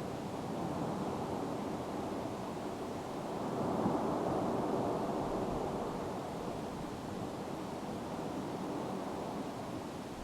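Mount Etna erupting: a continuous rushing roar that swells about four seconds in, then eases a little.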